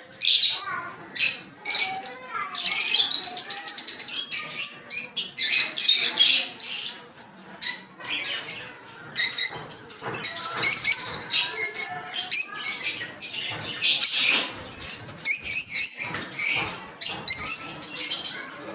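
Pet birds chirping, many short high chirps overlapping one another with only brief pauses.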